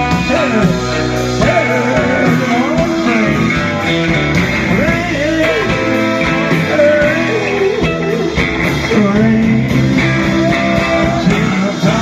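Live blues rock and roll band playing between sung lines: a guitar lead with bending notes over bass and drums.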